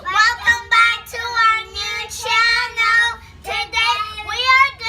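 A child singing a high-pitched tune, in short sung phrases with some held notes.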